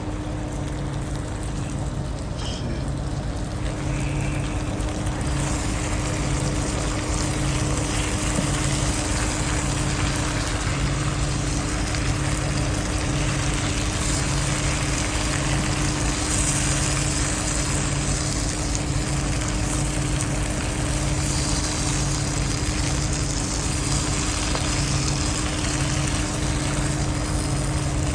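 Potatoes, onions and green pepper frying in olive oil in a pan, a steady sizzle that grows fuller about five seconds in. Under it runs the steady hum of an idling truck engine, with a low throb about once a second.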